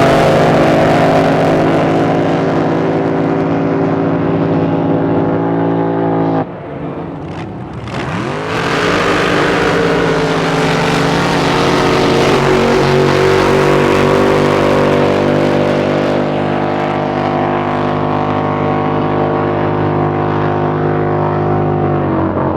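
Drag boat racing engines running loud with a steady pitched drone. The sound cuts off abruptly about six seconds in, then an engine revs up in pitch, holds steady, and drops away near the end.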